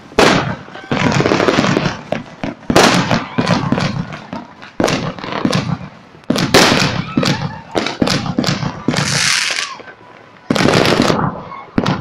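Fireworks going off in quick, irregular succession: many sharp bangs and crackles, some overlapping, with a short rushing hiss about nine seconds in.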